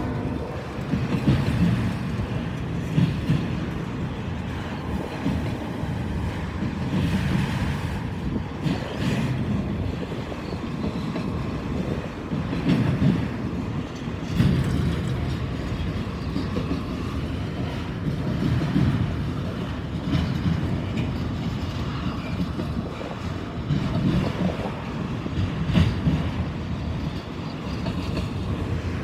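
Long freight train of auto rack cars rolling past close by: a steady rumble of wheels on rail, with clickety-clack swelling every second or two as the wheel sets go by.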